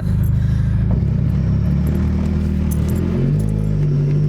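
Turbocharged 1.8-litre four-cylinder Chevy Cruze engine running loud while the car backs up in reverse. Its note steps up in pitch about a second in and again past three seconds as the revs rise.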